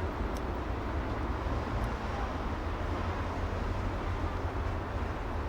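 Street traffic ambience: a steady low rumble and hiss of traffic with no single vehicle standing out, and two faint high ticks, one near the start and one about two seconds in.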